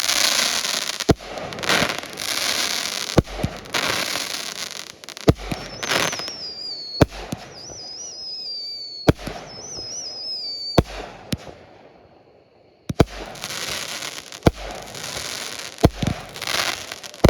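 A 200-gram consumer firework cake firing: sharp bangs of shells going off every second or two, each followed by a crackling hiss. About six seconds in, wavering whistles join for several seconds; a short lull comes near twelve seconds before more bangs and crackle.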